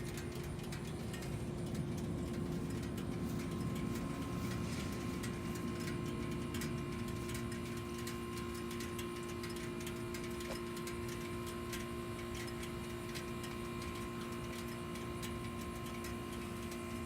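Steady mechanical sound: a low rumble under fast, even ticking, with a steady hum.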